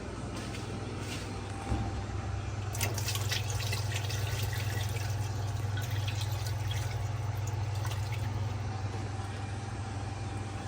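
Hot water poured and splashing down onto a seized washer wash plate and basket hub, dripping and trickling, to free the stuck hub from the shaft. The splashing and dripping get louder a couple of seconds in, over a steady low hum.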